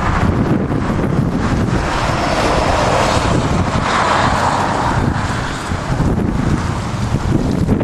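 Wind buffeting the microphone in a loud, steady rumble, with a rushing swell in the middle.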